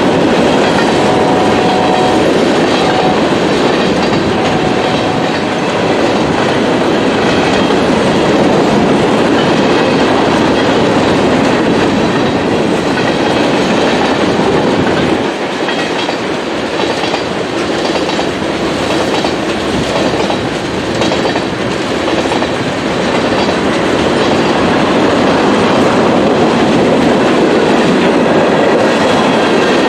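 Freight cars of a manifest train rolling past at a grade crossing: a steady rumble of wheels on rail with clickety-clack over the joints. It gets slightly quieter about halfway through.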